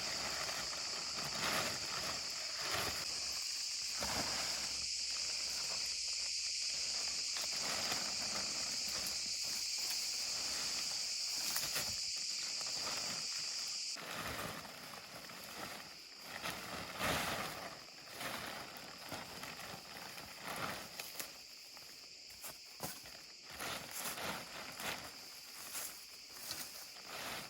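Steady high insect chirring with scattered light rustles and knocks; about halfway through the chirring drops away suddenly, leaving only irregular rustling and small knocks.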